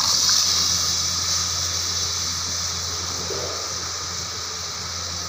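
Ground tomato purée hitting hot oil and spices in a cooking pot, sizzling loudly at first and then settling into a steady hiss as the masala begins to cook. A steady low hum runs underneath.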